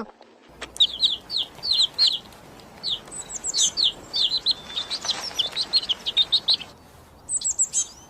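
Birds chirping: many short, high peeps that fall in pitch, in quick irregular runs, with a brief pause near the end.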